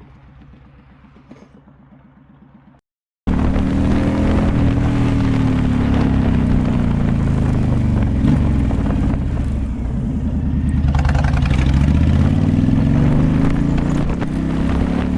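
Motorcycle engine idling quietly; then, after a sudden cut, the motorcycle running loudly under way, its pitch rising and falling as it accelerates and changes gear.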